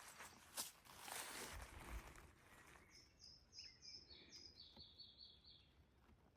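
Faint rustling at first, then a small songbird sings a quick run of short, high repeated notes that steps down in pitch partway through, lasting about two and a half seconds.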